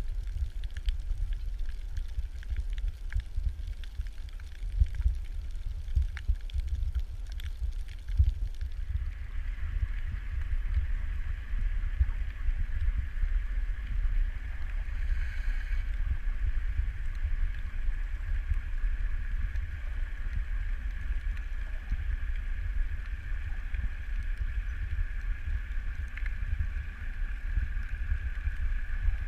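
Underwater ambience: a low, uneven rumble of water against the camera housing, with scattered clicks for the first eight seconds or so. From about eight seconds in, a steady higher hum joins and continues to the end.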